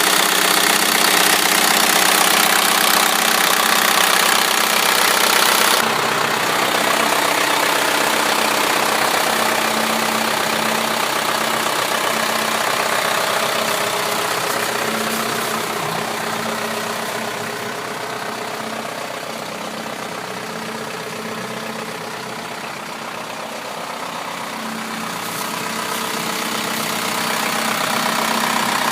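The diesel engine of a GMC W4500 cab-over truck idling steadily. It grows fainter through the middle and louder again near the end.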